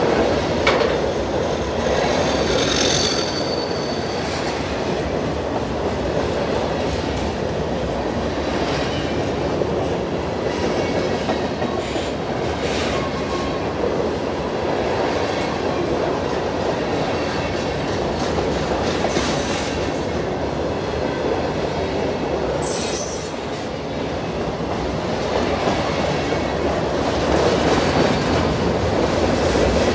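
Freight train of covered hopper cars rolling past close by: a steady rumble of steel wheels on rail with clicking over the rail joints, and brief high-pitched wheel squeals several times.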